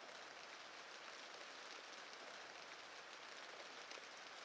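Faint, steady rain on window glass, with many small scattered drop taps.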